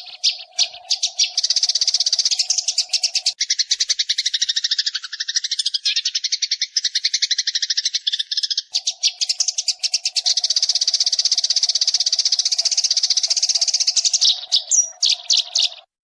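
Recorded sparrow calls used as a trapping lure: a dense, rapid chatter of chirps many times a second, starting and stopping abruptly. A steady low hum runs under the chirping for the first few seconds and again from about nine seconds in.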